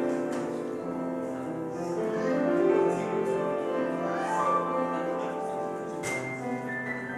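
Piano music playing, held notes and chords shifting in pitch.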